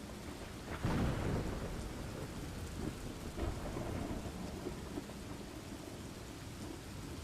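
Steady rain with low rumbling thunder, the thunder swelling louder about a second in.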